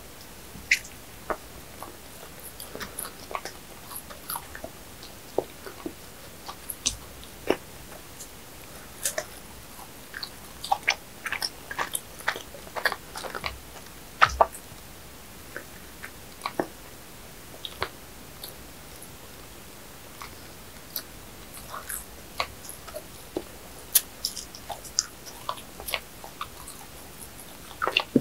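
Close-miked biting and chewing of a soft chocolate-coated bread, with many irregular sharp mouth clicks.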